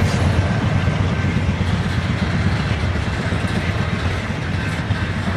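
Steady low rumble of a freight train running past.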